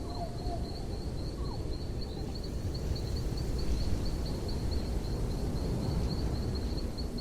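Outdoor ambience: a steady low rumble, with a high chirp repeating about four times a second throughout.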